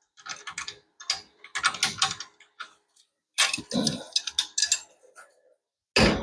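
Ratchet wrench clicking in short runs while a fastener is worked, with louder metallic knocks about three and a half seconds in and at the end.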